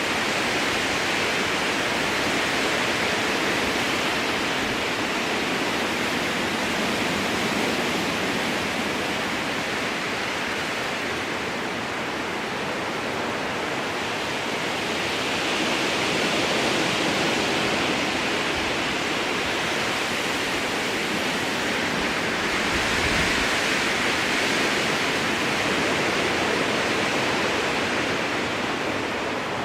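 Strong wind blowing through a spruce forest: a steady rushing hiss that swells and eases in slow gusts.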